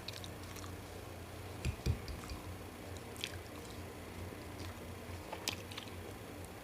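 Someone chewing food with the mouth close to the microphone: soft wet squishing and a few sharp mouth clicks, with two low thumps about two seconds in, over a steady low hum.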